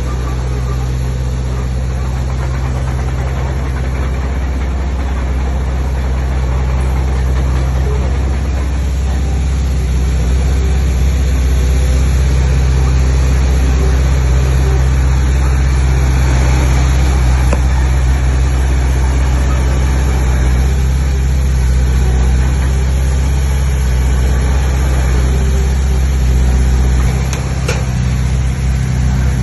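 Heavy diesel engine of earth-moving machinery running steadily, a little louder from about ten seconds in, with a brief dip and a single click near the end.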